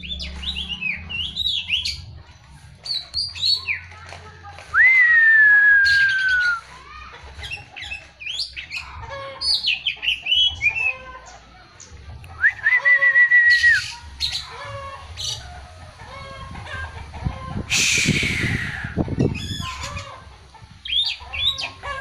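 Oriental magpie-robin (kacer) singing a varied song of short whistles, chirps and trills. A long whistle slides down about five seconds in, a flat held whistle comes about twelve and a half seconds in, and a harsh rasping call falls in pitch near eighteen seconds.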